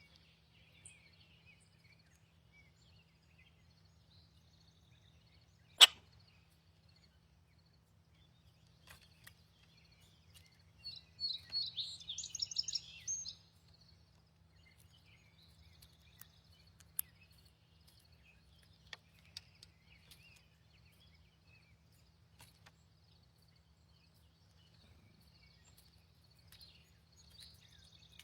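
Small birds chirping now and then, with a burst of rapid high twittering song about halfway through, over a faint steady low hum. A single sharp loud click sounds near the six-second mark.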